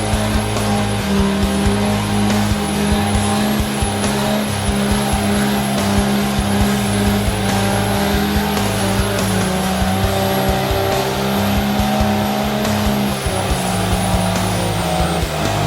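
A vehicle engine held at high, steady revs, with a high whistle over it; the revs drop in the last couple of seconds.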